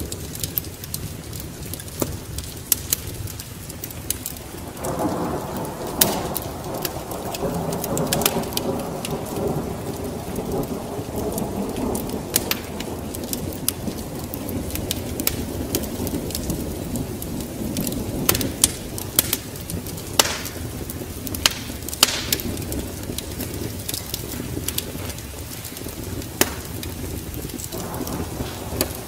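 Wood fire crackling with frequent sharp pops over steady rain, with a roll of thunder swelling about five seconds in and rumbling away over several seconds, and a smaller rumble near the end.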